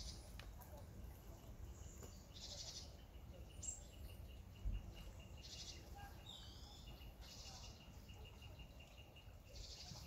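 Faint woodland birdsong: short high trills repeating about every two seconds, and a gliding call around the middle, over a low steady background rumble. A brief low thump comes about halfway through.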